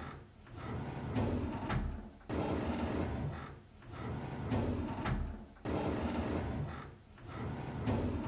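A drawer being slid open over and over, each time a rumbling slide, several of them ending in a sharp knock, repeating about every three seconds.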